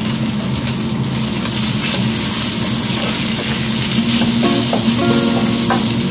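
Marinated beef slices sizzling in a hot wok as they are stir-fried and turned with a spatula. Background music plays over the sizzle, with a few melodic notes past the middle.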